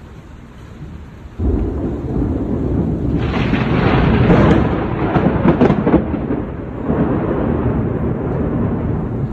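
Thunder: a sudden loud crack about a second and a half in, swelling into a long rumble with crackling peaks a few seconds in, then rolling on.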